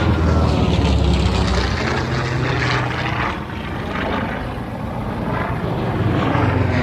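Propeller-driven World War II warbird with a radial piston engine flying past on its landing approach, a steady low engine drone. The drone dips about halfway through, then swells again near the end as more aircraft come in.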